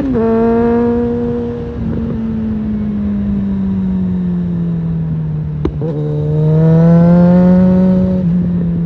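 Suzuki GSF650 Bandit inline-four engine through a Storm aftermarket exhaust, under way. The revs drop sharply on a gear change at the start, then fall slowly as the bike rolls off. After a short click about five and a half seconds in, the revs jump and the engine pulls up again, with another shift near the end.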